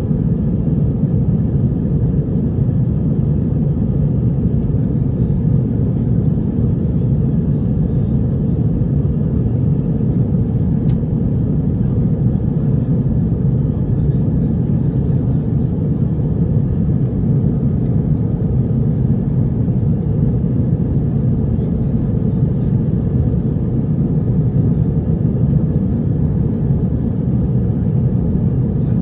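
Steady, low cabin noise of a jet airliner in flight: engine and airflow noise heard from inside the passenger cabin.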